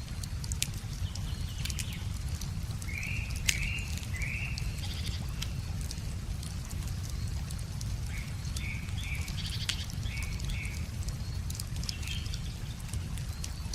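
Wood fire crackling with scattered sharp pops over the steady low rush of a river, while a bird calls in short repeated chirps, a few seconds in and again after the middle.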